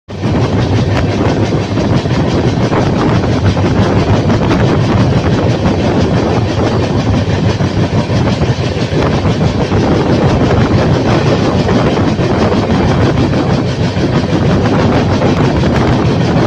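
Train running at speed on the rails: a loud, steady rumble that holds at one level throughout.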